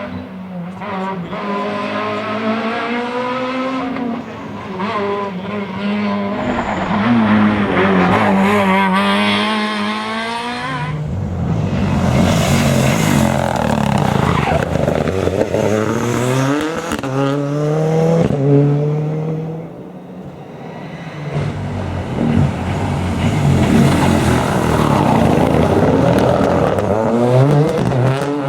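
Rally cars driven flat out on a tarmac stage, their engines revving hard and rising in pitch through the gears, then dropping on lift-off and downshifts, with some tyre squeal. The sound eases briefly about two-thirds of the way through before another run builds up.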